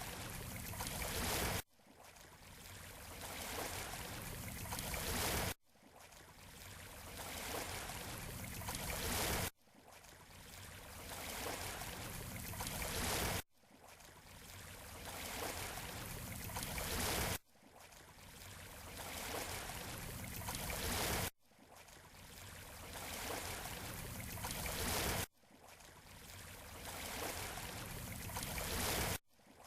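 Surf washing on a beach. Each wash rises steadily for about four seconds and then cuts off abruptly, repeating at an even pace like a short looped recording.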